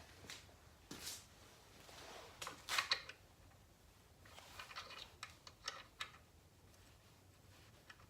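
Metal sockets clicking and clinking as they are rummaged through in a tool drawer, in scattered handfuls of clicks, loudest about three seconds in.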